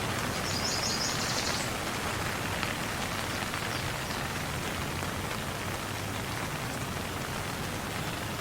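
Steady rain falling and pattering on surfaces. A short high trill sounds briefly about half a second in.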